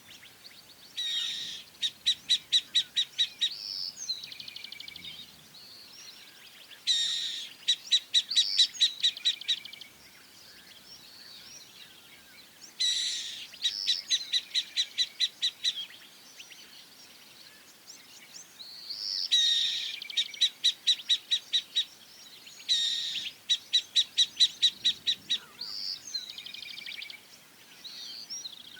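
A songbird singing the same song five times, about every six seconds. Each song opens with a quick sweep, then runs into a fast, even series of about ten high notes, with softer notes trailing after.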